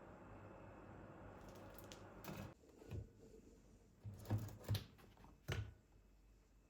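A steady low hum that cuts off about two and a half seconds in, followed by five short knocks and clicks of objects being handled.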